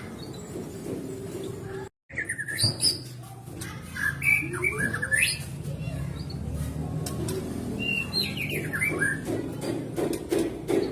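White-rumped shama (murai batu) singing: short whistled phrases and chirps that glide up and down. The sound cuts out completely for a moment about two seconds in.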